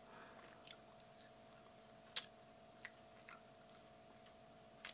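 Faint, scattered mouth clicks and smacks of someone chewing a stick of gum, with a sharper click near the end, over a steady faint hum.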